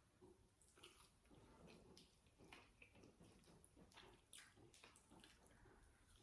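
Faint, wet close-up chewing and mouth sounds of someone eating noodles, with small irregular smacks and clicks throughout.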